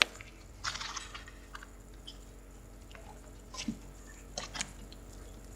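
Slime being squished and pressed by hand: a sharp click at the start, then scattered short, wet squelches.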